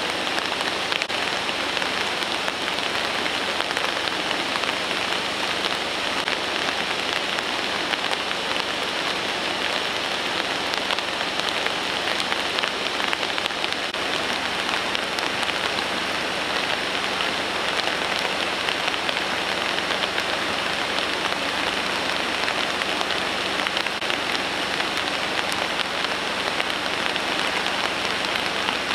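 Steady heavy rain: an even hiss of drops falling on surfaces, with a fine patter throughout.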